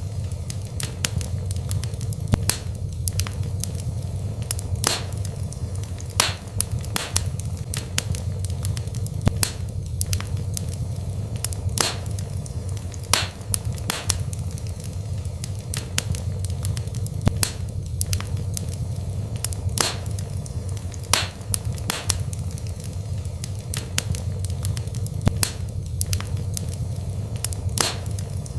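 Burning wood fire crackling, with frequent sharp irregular pops over a steady low rumble of the flames.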